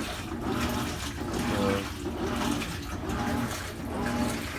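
GE GTW465 top-load washing machine filling its tub, water pouring steadily in over the submerged clothes of a small load.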